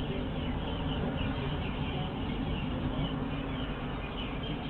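A vehicle engine running steadily, with birds chirping.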